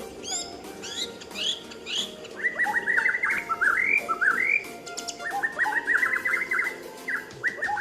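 White-rumped shama singing: a run of short, repeated hooked whistles, then from about two and a half seconds in, fast trills and rising sweeps with brief pauses.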